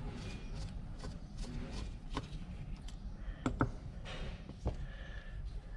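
Scattered light clicks and taps of small carburetor parts and tools being handled as a string trimmer carburetor is taken apart, with two sharper clicks close together about three and a half seconds in.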